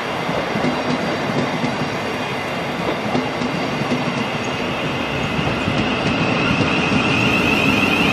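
A train running on the rails with a steady rumble and wheel noise. A high whine grows louder near the end.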